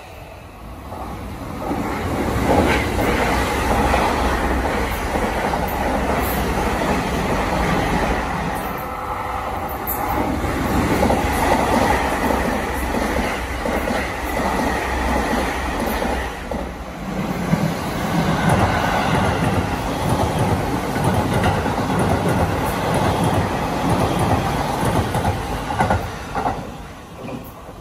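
Seibu 001 series Laview electric limited express trains running through stations: a steady rolling rumble of wheels on rail. About two-thirds of the way through, the sound drops briefly, then a second pass begins with a regular clickety-clack of wheels over rail joints.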